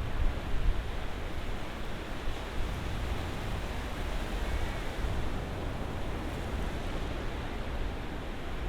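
Ocean waves washing onto the shore: a steady rushing noise with a deep low rumble, a little louder in the first second.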